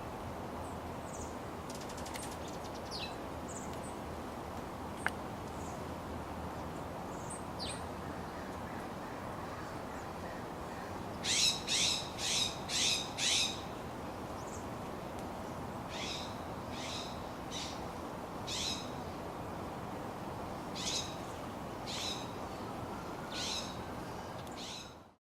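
A bird calling: a quick run of five sharp, high calls about halfway through, then single calls every second or two. A steady background hiss runs underneath.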